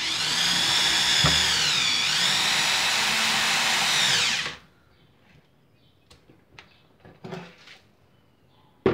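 Bosch GSR 7-14 E corded drill/driver driving a self-drilling screw into 14-gauge steel tubing. Its motor whine sags in pitch about two seconds in as the screw bites, recovers, then stops after about four and a half seconds. A few light clicks follow, and a sharp click comes near the end.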